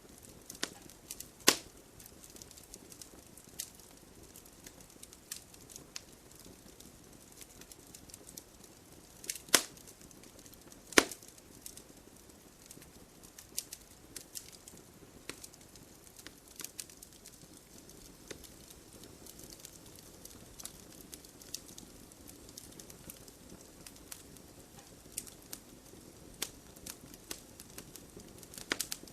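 Wood logs burning in a fireplace, crackling steadily with scattered sharp pops over a faint hiss. Three pops stand out as much louder: one early on and two close together near the middle.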